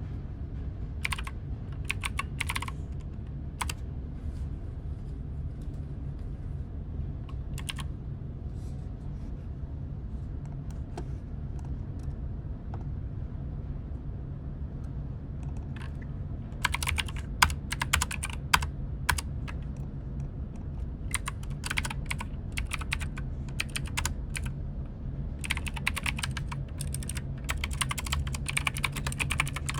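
Typing on a computer keyboard in irregular bursts: a few scattered keystrokes early on, then fast runs of typing from a little past halfway. A steady low hum runs underneath.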